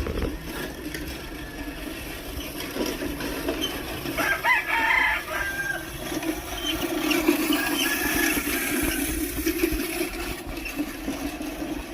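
A rooster crows once about four seconds in. Chickens cluck fainter calls around it, over a steady low hum.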